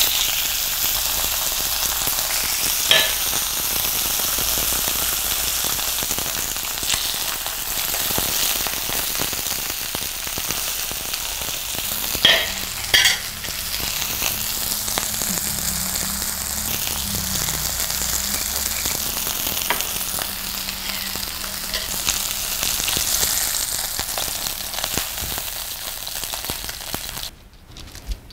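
Chicken breasts sizzling in a hot oiled grill pan: a steady frying hiss, broken by a few sharp clicks. The sizzle cuts off suddenly shortly before the end.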